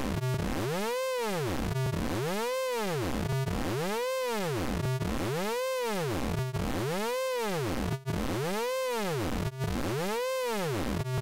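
Synthesized vocoder tone from the Orange Vocoder plugin, its pitch sweeping up and falling back down over and over, about once every three-quarters of a second.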